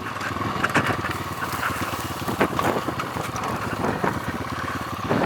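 PitPro 140 pit bike's 140cc single-cylinder engine idling steadily.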